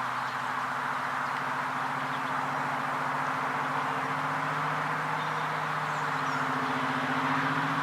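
A large engine idling steadily: an even low hum with a hiss over it, unchanging throughout.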